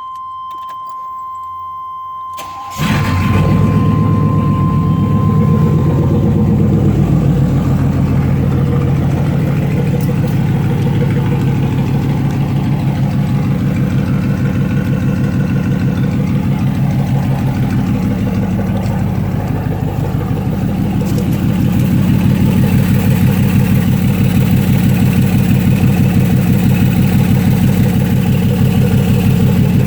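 A 1997 Chevy Tahoe V8 breathing through true dual straight pipes with no catalytic converters. The engine fires about three seconds in and settles into a loud, rhythmically pulsing idle. A steady high tone sounds before it starts.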